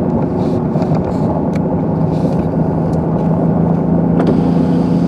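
Car driving on a snow-covered road, with a steady engine hum and road rumble; the engine's pitch rises slightly about four seconds in.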